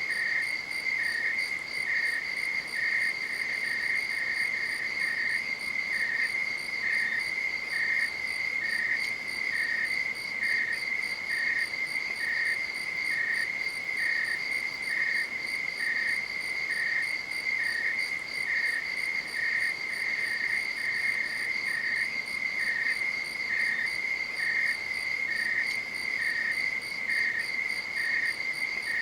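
Night insects singing: one keeps up a steady high-pitched trill while a second, slightly lower one chirps in an even rhythm, about three chirps every two seconds.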